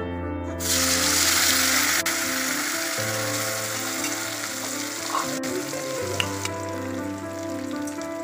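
Mashed potato, aubergine and onion frying in hot mustard oil in a wok, a loud sizzle that starts suddenly about half a second in and eases a little near the end. Background music with a slow bass line plays underneath.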